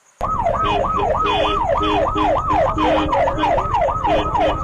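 Police siren yelping, its pitch sweeping down fast about four times a second, over a rumble of wind and road noise. It cuts in suddenly just after the start.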